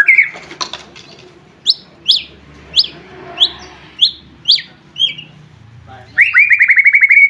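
White-rumped shama (murai batu) singing: a string of about seven sharp downslurred whistles, roughly two a second, followed near the end by a fast, rapid trill.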